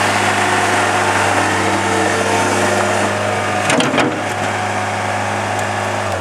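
2002 Mustang 2054 skid steer loader's engine running steadily, with a few sharp clicks about four seconds in. At the very end its pitch begins to fall as it winds down.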